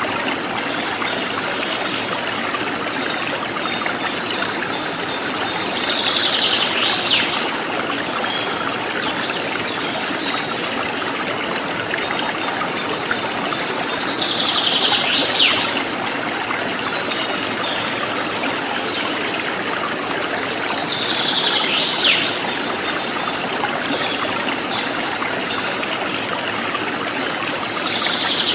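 Forest stream trickling and splashing steadily, with a bird's short buzzy call that ends in a falling sweep, repeated four times about seven seconds apart.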